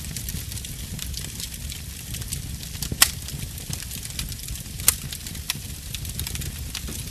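Wood fire crackling in a brick fireplace: scattered sharp pops over a steady low rumble, with the loudest pops about three seconds in and again near five seconds.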